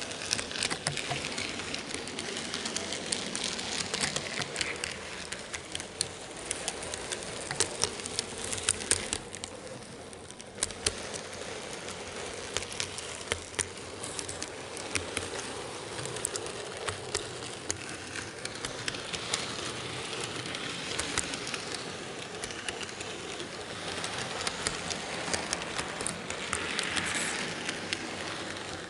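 N gauge model train running on its track, picked up by an action camera riding on the train: a steady rattling hiss of small wheels and motor, with frequent sharp clicks of the wheels on the rails.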